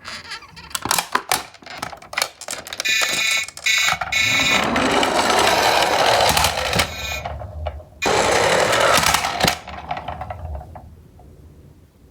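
Toy garbage trucks clattering and knocking against each other, a brief electronic toy beeping about three seconds in, then two long rushing runs of plastic toy wheels rolling fast down a slope, the second fading out.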